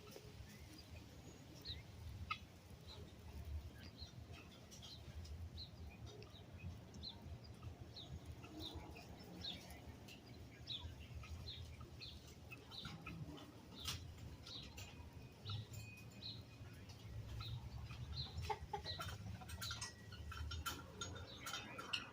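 Birds calling with short, high chirps, about two a second, over a faint low rumble.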